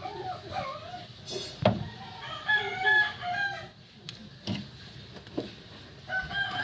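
A rooster crowing twice, with three sharp knocks in between.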